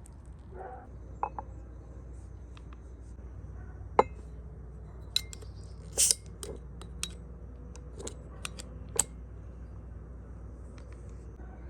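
Scattered clinks and taps of utensils and dishes being handled: about nine separate knocks, the loudest a short cluster about six seconds in, over a steady low background rumble.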